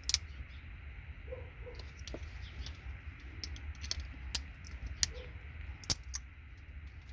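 Sharp plastic clicks and small metallic clinks, scattered and irregular, as RJ45 jack modules and their gold-plated pins are worked out of a network patch panel by hand.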